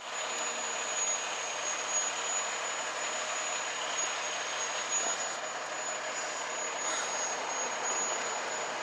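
Fire engine idling, a steady even engine noise with a thin high-pitched whine that holds throughout.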